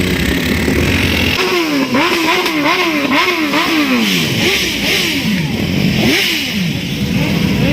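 Superbike engine revved in a series of quick throttle blips, its pitch rising and falling about ten times, starting about one and a half seconds in after a short spell of steady running.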